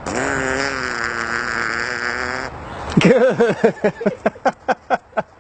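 Parrot making a long, steady, buzzy tone for about two and a half seconds. After a short pause it gives a quick run of short chirps that rise and fall in pitch, about five a second.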